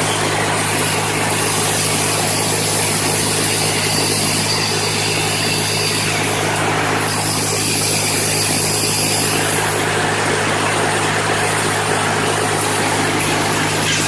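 A large engine running steadily, with a constant low hum and a hiss above it.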